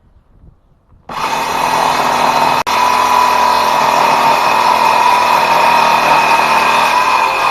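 Ridgid circular saw starting abruptly about a second in, then running loudly and steadily with a high whine. It drops out for an instant once, a little later.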